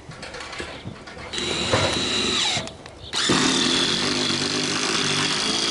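Power drill driving screws into the roof decking in two runs: a short one about a second in, then a longer one after a brief pause, each with a steady high whine.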